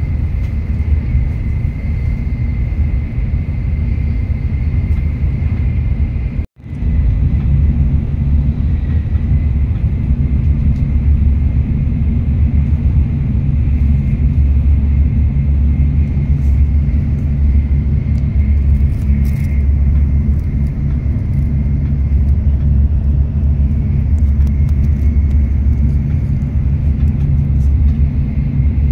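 Steady low rumble of a train running, heard from inside the passenger cabin, with a faint high steady tone above it. The sound cuts out for an instant about six and a half seconds in.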